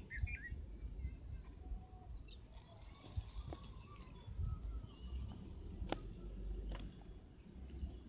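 Bulbul calling: scattered short chirps and warbling notes, with a steady low rumble underneath and two sharp clicks about six and seven seconds in.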